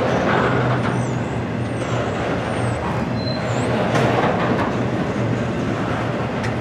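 Intermodal freight train of trailers on flatcars rolling past: steady noise of steel wheels on rail with a low hum, and one sharp clack about four seconds in.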